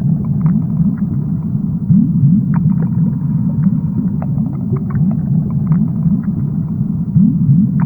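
Underwater recording: a steady low rumble made of many short, overlapping rising calls, with scattered sharp clicks.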